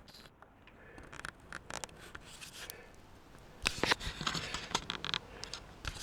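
Handling noise from a camera tripod being adjusted: irregular clicks, knocks and scraping rubs as its knobs are turned and the head is moved, busiest in the second half.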